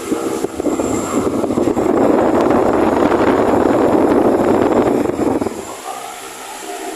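Large 60 cm, 200 W floor fan running, its airflow rushing loudly over the microphone. The rush eases for about a second near the end, leaving a faint motor hum.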